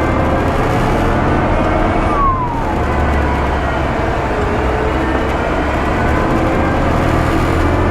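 Concrete mixer truck's diesel engine running steadily, its pitch drifting slowly, with a brief falling whistle about two seconds in.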